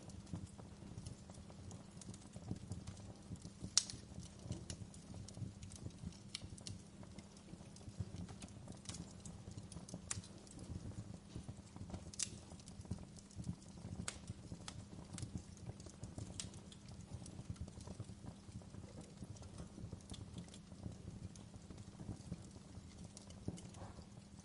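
Wood fire crackling in a fireplace: irregular sharp pops and snaps over a steady low rumble, with a louder pop about four seconds in and another about twelve seconds in.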